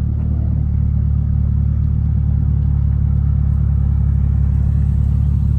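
Nissan 240SX engine idling steadily and loudly through a muffler delete with homemade blast pipes, a deep even rumble.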